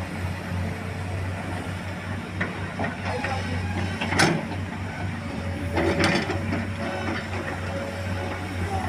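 Truck engine running steadily at a low pitch, with a couple of sharp clanks about four and six seconds in.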